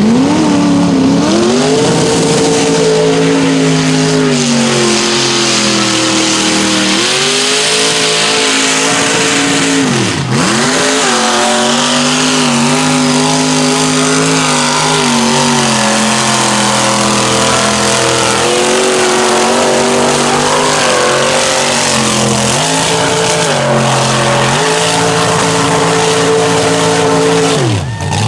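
Mud-bog truck engine running hard at high revs through the bog. The revs drop sharply and climb straight back about ten seconds in, and again at the very end.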